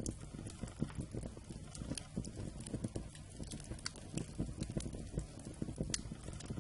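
Wood campfire crackling: a dense run of small low crackles, with a sharp pop every second or so.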